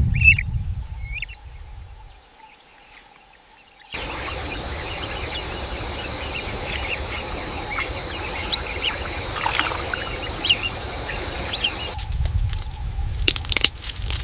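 Wild nature ambience in cut-together pieces. It opens with a low rumble and a few bird chirps. About four seconds in, a steady high insect drone comes in over a rushing haze with scattered bird calls, and it stops about twelve seconds in. Near the end there are a few sharp clicks.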